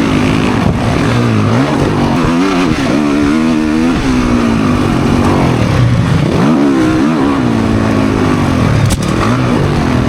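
Dirt bike engine revving hard under racing throttle, its pitch climbing and dropping again and again every second or two as the rider accelerates, shifts and backs off, over a steady rushing noise.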